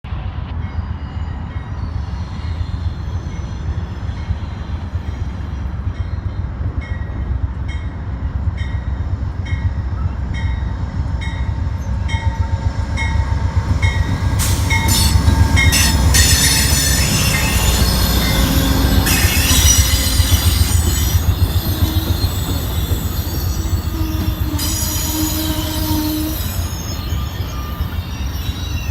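Amtrak passenger train of Superliner cars rolling past with a steady low rumble. It makes an evenly spaced clicking, about one to two a second, for the first half. About halfway through, high-pitched wheel squeal sets in and goes on until near the end, the loudest part.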